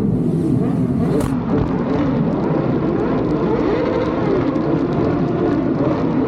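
Motorcycle exhaust running loudly with repeated crackles and pops, echoing in a tunnel. The engine note rises and falls a little around the middle.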